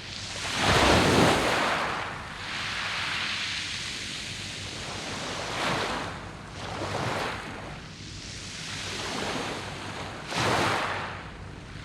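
Sea waves breaking and washing up a round-pebble beach, coming in surges. The loudest surge is about a second in, with further ones around six, seven and ten and a half seconds.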